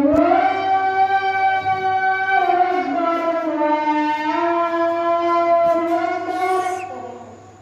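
Aseel rooster crowing: one long, drawn-out crow of about seven seconds that starts abruptly, drops a step in pitch partway through, and fades out near the end.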